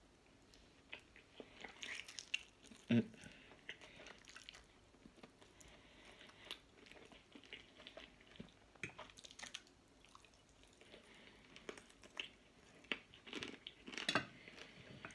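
Close-up chewing and eating sounds: wet mouth smacks and small clicks while meat is chewed and pulled off the bone, with a few louder bites near the end.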